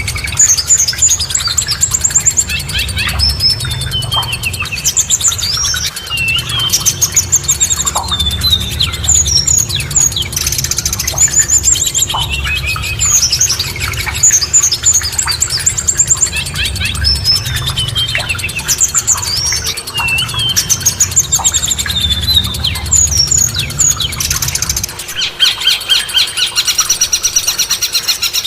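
Recorded songbird song: many rapid chirps and whistled up-and-down phrases, repeated over and over, over a low rumble that stops near the end, where a fast buzzy trill takes over.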